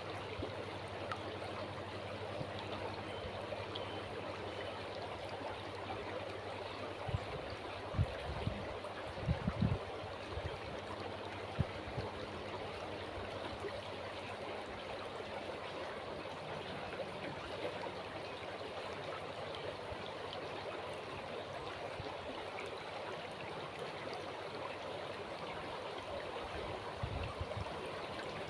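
Steady rushing of a calm river flowing. A few short low thumps come about eight to ten seconds in and again near the end.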